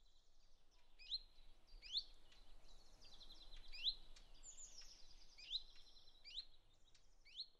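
Faint birdsong: quick chirps that sweep sharply upward, every second or so, over buzzy trilling notes.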